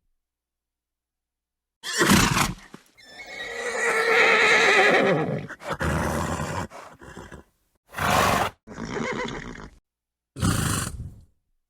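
Horse neighing: a long, wavering whinny begins about three seconds in, among several shorter horse calls. The calls are separated by gaps of dead silence.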